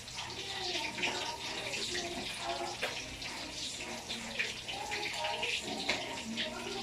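Chicken frying in hot oil: a steady sizzle with many small crackles and pops. Faint voices can be heard underneath.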